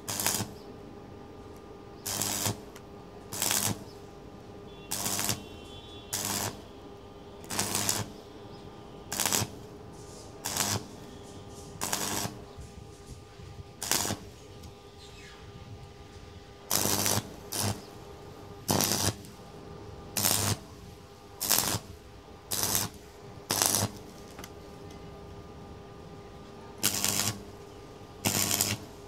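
Repeated short rasping strokes of hand work on a metal exhaust pipe, each lasting under half a second and coming irregularly about every one to two seconds, over a faint steady hum.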